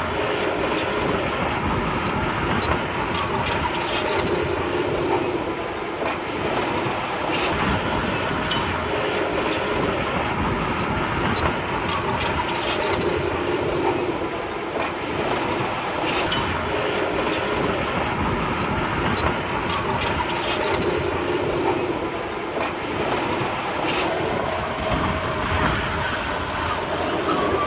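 Komatsu D31P crawler bulldozer working: its diesel engine runs steadily, swelling every several seconds as it takes load, with frequent sharp clanks and knocks from the steel tracks and the pushed stone.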